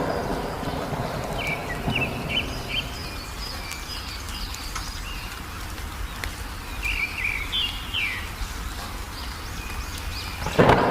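Wild songbirds chirping in short quick phrases, twice, over a steady low rumble of outdoor ambience. A loud low rumble, like thunder, swells up near the end.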